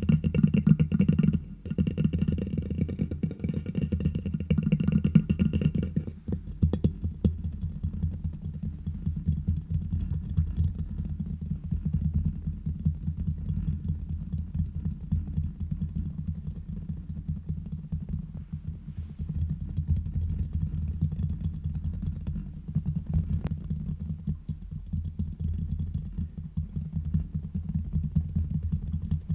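Fingers tapping and scratching fast on a microphone: a dense, continuous run of quick taps, mostly low in pitch. A brighter layer sounds over the taps for the first six seconds or so, then drops away.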